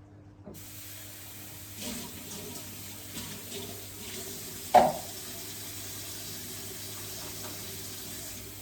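Steady running water, with one loud knock a little before five seconds in.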